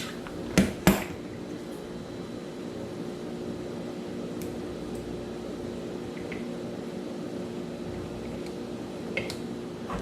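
Two sharp clicks about a third of a second apart near the start, then a few faint taps, as small spinning-reel parts are handled and set down, over a steady low hum.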